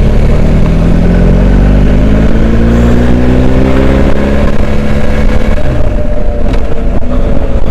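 BMW R1250GS Adventure's boxer-twin engine under way, its pitch rising slowly for about five seconds and then falling away as the throttle eases off, over heavy wind rumble on the helmet or bike microphone.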